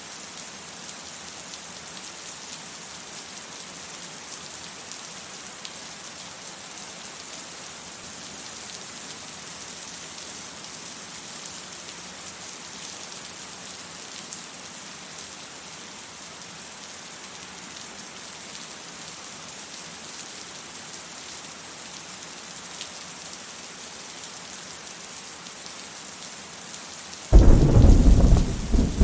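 Steady rain, a hiss of drops on hard surfaces, then a loud clap of thunder that breaks in suddenly near the end and goes on rumbling.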